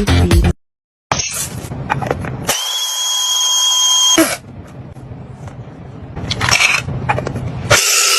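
Music cuts off half a second in. After a short gap a small electric motor runs in short bursts, with a steady high-pitched whine for about two seconds in the middle and another burst near the end.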